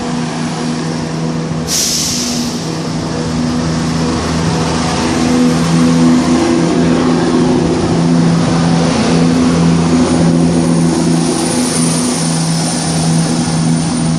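Diesel multiple-unit train pulling away from the platform. Its brakes release with a sharp burst of air hiss about two seconds in, then the engine note holds steady and grows louder as the train moves off.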